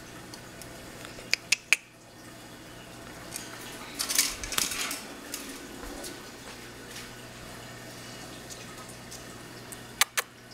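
Sharp clicks and clatter of small hard objects: three quick clicks about a second and a half in, a short clattering run around four to five seconds, and two more clicks near the end, over a steady low hum.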